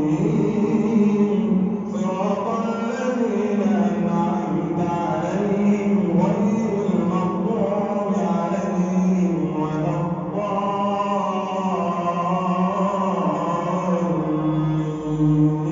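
A man reciting the Quran in a melodic chant during prayer, one voice with long, drawn-out notes that rise and fall.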